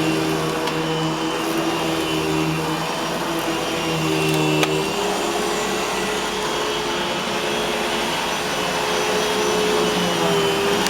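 Eureka Boss Smartvac 4870 upright vacuum running steadily, its motor and stiff-bristled brush roll working the carpet. The motor's pitch shifts a couple of times as the load changes.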